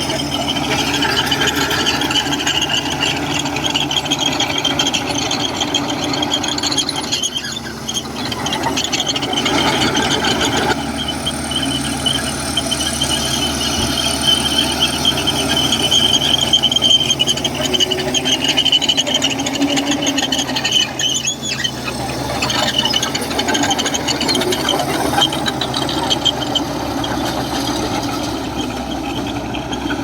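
Komatsu bulldozer working, its diesel engine running under load with a continuous high-pitched squeal over it, easing briefly twice.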